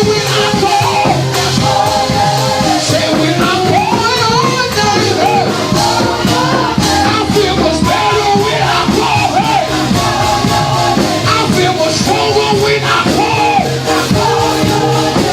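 Live gospel praise-and-worship music: voices singing over a band with a steady beat and bass.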